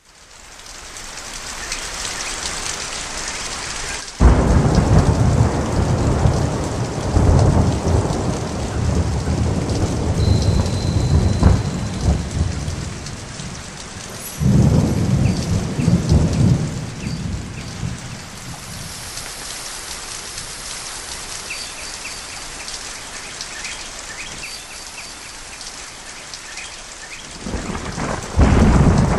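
Thunderstorm: steady rain falling, with loud rolls of thunder. One breaks suddenly about four seconds in and rumbles for several seconds, another starts about halfway through, and a third comes near the end.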